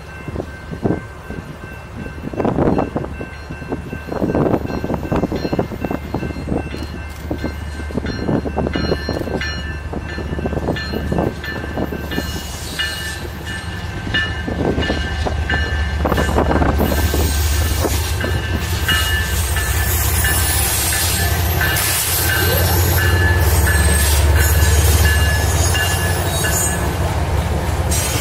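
Freight train passing: two BNSF diesel locomotives rumble as they approach and go by, the rumble building to its loudest past the middle. Hopper cars follow, rolling over the rails with knocks and clacks and a thin steady wheel squeal.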